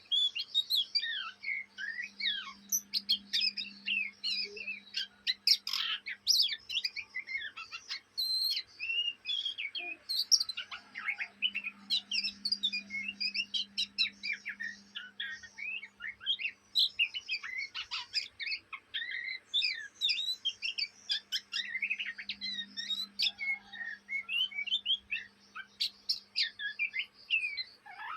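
A young oriental magpie-robin (kacer) twittering without pause in a rapid, unbroken stream of short chirps and whistles. This is the busy 'ngriwik' chatter of a juvenile bird not yet trained to song.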